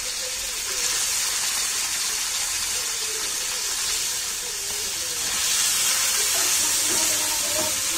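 Paneer cubes sizzling in hot oil in a frying pan, with more cubes tipped in and stirred with a spatula. The sizzle swells about five seconds in.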